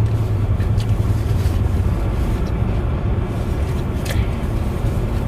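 Steady low rumble of idling cars heard from inside a parked car, with a few faint clicks about a second in and again near four seconds.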